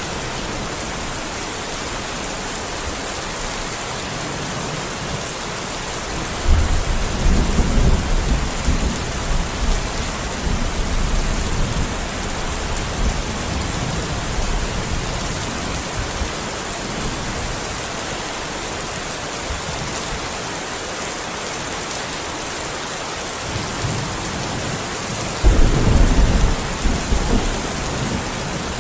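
Steady rain falling, with two deep rolls of thunder: one breaking suddenly about six seconds in and rumbling for a few seconds, another near the end.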